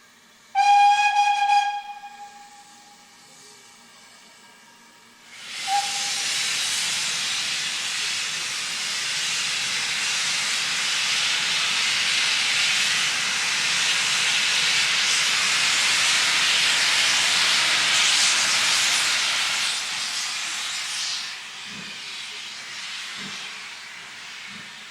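Steam locomotive whistle giving one loud blast about half a second in, lasting about a second. A few seconds later there is a brief toot, and then a long, loud hiss of escaping steam that lasts about fifteen seconds before fading, with a few soft low thuds near the end.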